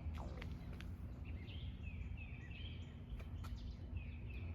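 Songbirds chirping: a short downward-sliding call repeated about twice a second, over a steady low background hum.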